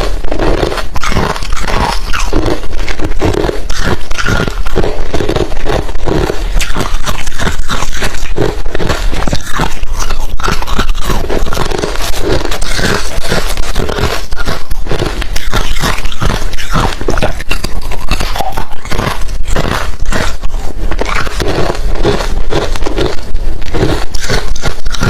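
A person biting and chewing hard refrozen crushed ice close to the microphone: a loud, unbroken run of crisp crunches.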